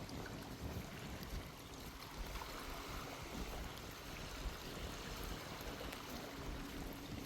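Small waves washing onto a sandy shore, a steady wash of surf, with sea breeze rumbling on the microphone.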